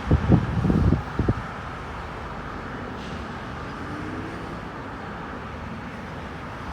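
Wind buffeting the microphone in low gusts for about the first second, then a steady outdoor hum with no distinct events.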